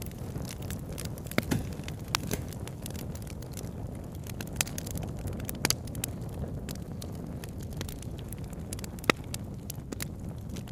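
Campfire crackling, with scattered sharp pops of burning wood, the loudest about nine seconds in, over a steady low rushing.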